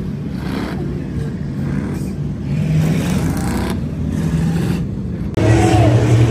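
Car engines running and revving unevenly, the pitch rising and falling. About five seconds in a louder, steadier engine drone starts suddenly.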